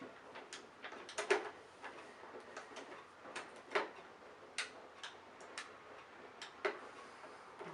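Irregular clicks and light knocks, a dozen or so, from the parts of a 1980s Hoover Senior U4186 upright vacuum cleaner being handled and checked over; the machine is not running.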